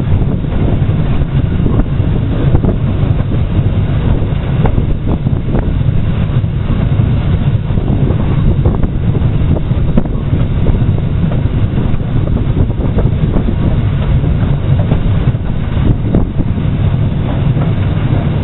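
Steam-hauled freight train led by former LSWR Beattie 2-4-0 well tank 30587, heard from the brake van coupled to it: a steady low rumble of wheels on the track with irregular clicks and clanks from the rails, and wind on the microphone.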